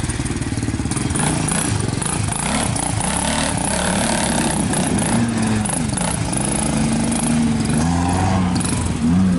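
Engines of jeeps and motorcycles running, with their pitch rising and falling several times as they rev.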